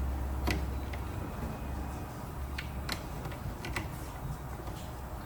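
Scattered light clicks and taps of hand tools and wiring being handled at a heat pump, over a steady low hum.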